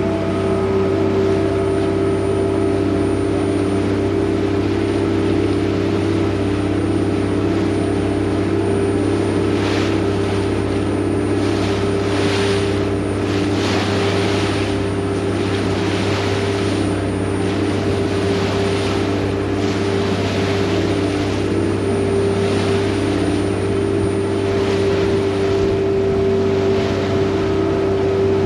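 Vaporetto water bus engine running at a steady cruise, a constant low drone, with a rushing hiss that swells a few times in the middle.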